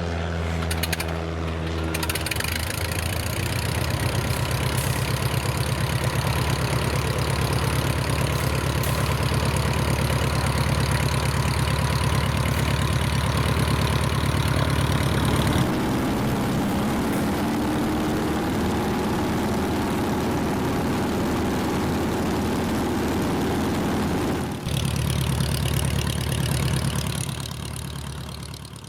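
Light aircraft piston engine running with its propeller, in stretches that change abruptly about 2, 16 and 25 seconds in; the sound fades out near the end.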